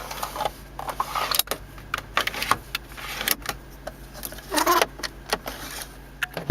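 Irregular clicks of car cabin buttons and switches being pressed, over the steady low hum of the idling BMW 745i engine.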